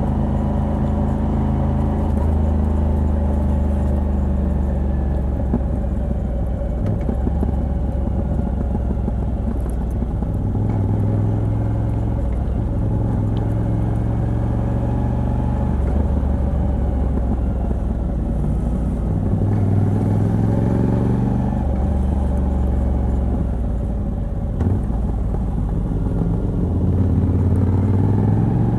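Moto Guzzi V85TT's air-cooled transverse V-twin, with its decat pipe, pulling the bike along at a relaxed pace. The engine note rises and falls several times as it accelerates, shifts gear and eases off.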